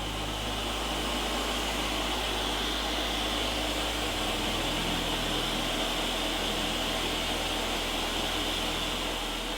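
Blender running steadily, blending fruit into juice.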